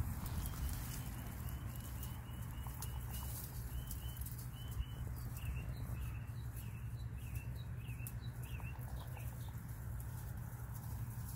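A small bird chirping: a rapid string of short high notes, about four a second, turning into sharper up-and-down notes midway and stopping near the end, over a steady low hum.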